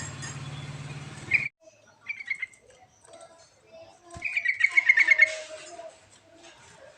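Yellow-vented bulbul (trucuk) calling: short chirps, then a loud bubbly run of quick notes about halfway through. Before that, a steady engine-like hum cuts off suddenly about a second and a half in.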